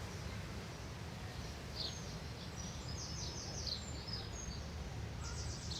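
Small birds chirping in short, high, quick calls, some in rapid runs, over a steady low background rumble.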